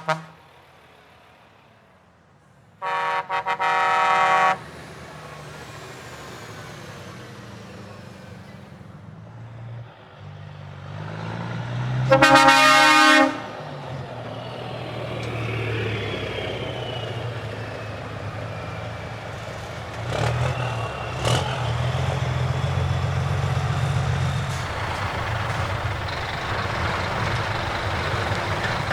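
Trucks passing with their engines running, sounding their horns in two long blasts: one about three seconds in and a louder one about twelve seconds in. Engine noise grows louder from about twenty seconds in.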